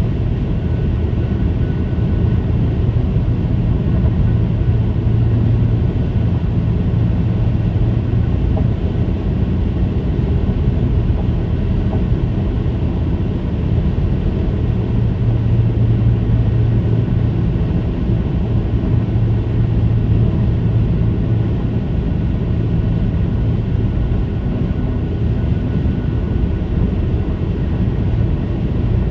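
Tyres of a 2022 Kia Forte GT-Line running at highway speed over diamond-ground concrete pavement, making a steady low-pitched hum, around A# at about 85 mph, over road rumble. The hum swells and fades every few seconds.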